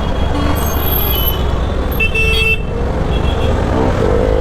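Steady low rumble of road traffic and engine from a moving motorcycle in town traffic, with a short vehicle horn toot about two seconds in.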